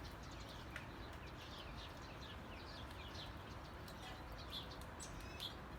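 Faint chorus of small birds chirping: quick, short falling chirps repeated several times a second over low background hiss.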